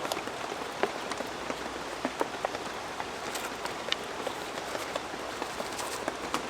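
Wood fire burning with a steady hiss and frequent irregular sharp crackles and pops from the firewood.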